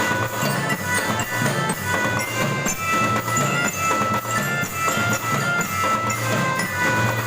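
Student marching drum band (gita suara) playing a tune: a steady drum and bass-drum beat under a bright held melody line.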